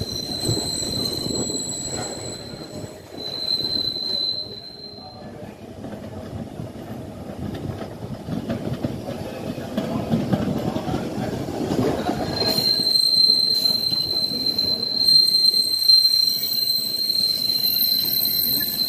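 Passenger train moving on the rails with a rumble, and a high, steady wheel squeal. The squeal fades a few seconds in and comes back loudly past the halfway point, holding as the train sound grows louder.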